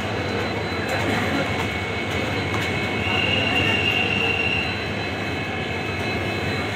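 Passenger coaches rolling past along a platform: a steady rumble of wheels on rail, with a high thin squeal for a second or two about three seconds in.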